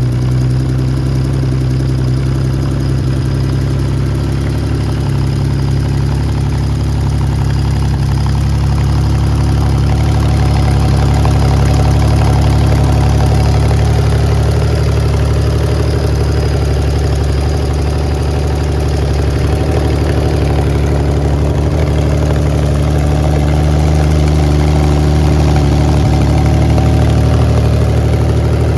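Honda CBX 1000's air-cooled inline-six engine idling steadily through a Pipemasters 6-into-6 exhaust.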